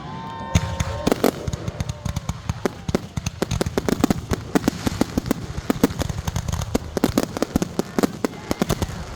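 Fireworks going off in a rapid, dense barrage: many sharp bangs and crackles a second, without a break.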